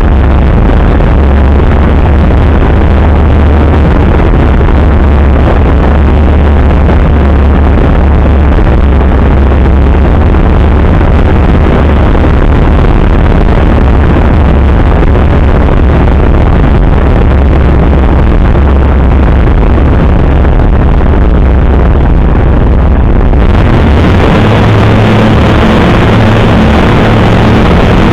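Light aircraft cockpit noise during an engine-failure glide approach: a loud, steady rush of air and wind on the microphone with the engine at reduced power. About 23 seconds in the sound changes abruptly and a steady engine hum comes in.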